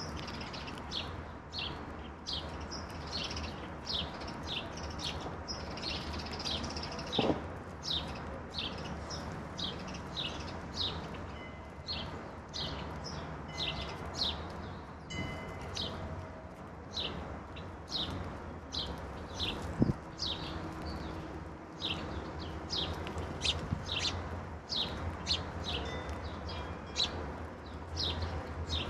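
Songbirds chirping, a steady stream of short, falling chirps two or three a second, over a low steady rumble, with a couple of brief knocks.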